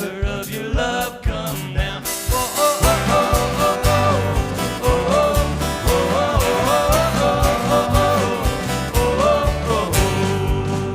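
Worship band music with a steady drum beat and bass under a wavering melody line, an instrumental stretch of the song.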